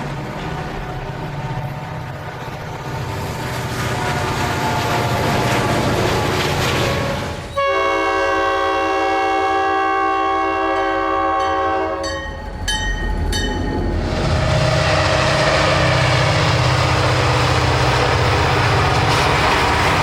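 EMD diesel-electric freight locomotives running with a heavy engine rumble and rolling noise. A locomotive air horn blows one long blast of about four seconds, starting suddenly about seven and a half seconds in, after which the engines and train noise come back loud.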